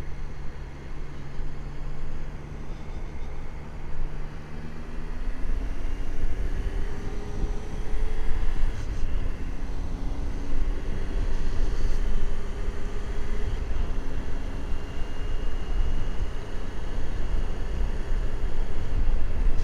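Motorcycle engine at steady revs, then accelerating from about five seconds in: its pitch rises, drops back at a gear change and climbs again. Wind rumble on the microphone grows as speed builds.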